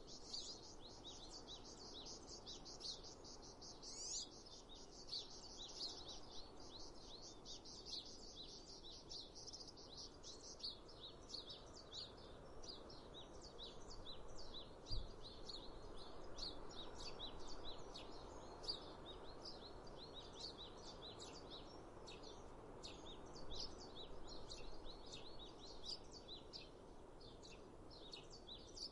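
Many small birds chirping and singing in quick, dense twitters over a soft steady background hiss of the outdoors.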